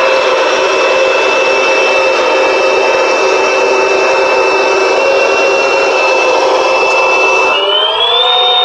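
Simulated M1A2 Abrams gas-turbine engine sound from a 1/16 RC tank's sound unit, played through its small speaker: a steady high whine over a rushing noise, rising in pitch about seven and a half seconds in as the turbine revs up.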